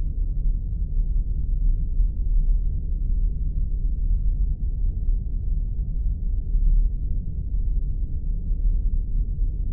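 Spaceship ambience sound effect: a steady, deep rumble with no rise or fall and nothing in the upper range.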